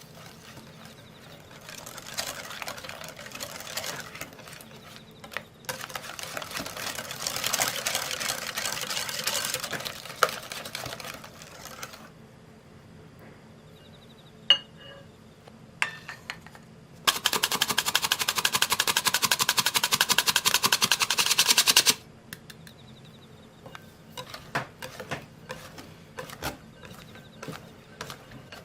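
Batter being worked in a bowl: a few seconds of scraping and stirring, then a sharp click. Then a small electric hand mixer runs at a steady buzz for about five seconds and stops abruptly.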